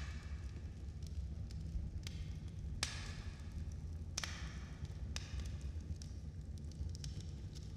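Wood fire burning in a fireplace: a low steady rumble of the flames with scattered sharp crackles and pops, the loudest about three and four seconds in.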